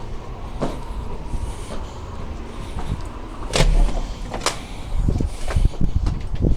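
A door being opened and shut: two sharp clacks about a second apart, then a run of dull thumps over a low rumble.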